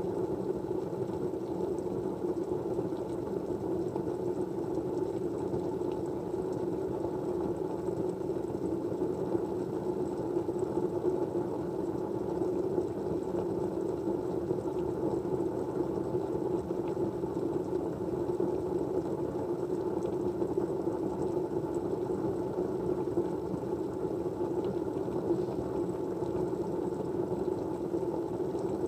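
Steady white-noise backdrop: an even, unbroken low rushing hiss with no speech or distinct events.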